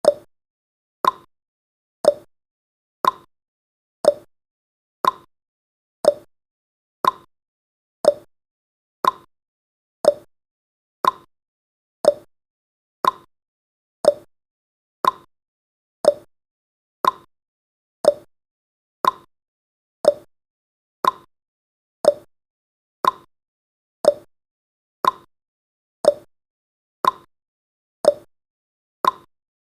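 Countdown timer's clock-tick sound effect, one short sharp tick every second at a steady pace.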